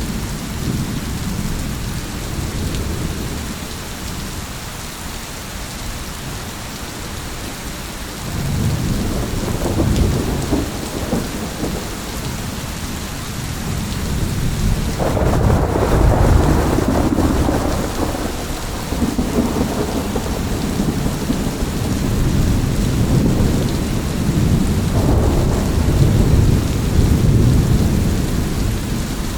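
Steady heavy rain falling, with rolling thunder rumbling over it: rumbles build about eight seconds in, again more strongly about halfway, and once more near the end.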